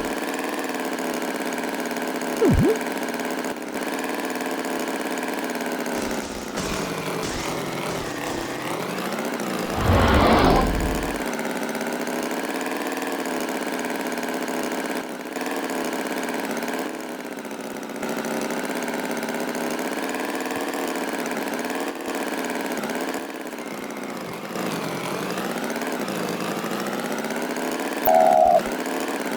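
Engine running steadily with a slight waver in pitch. It briefly gets louder about ten seconds in.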